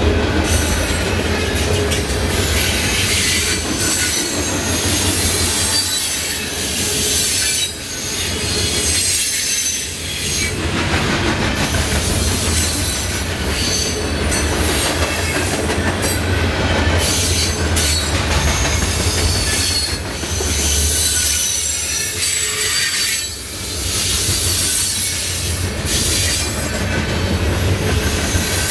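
Freight train cars rolling past at close range: a steady low rumble of steel wheels on rail, with high-pitched wheel squeal that wavers throughout and brief dips in loudness between cars.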